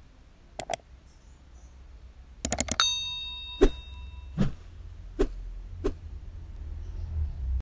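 Sharp clicks and taps over a low rumble: two near the start, a quick run of four about two and a half seconds in that leaves a brief bell-like ring, then four single clicks spaced well apart.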